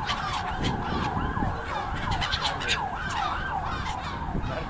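A flock of gulls calling, many overlapping calls that rise and fall in pitch, one after another.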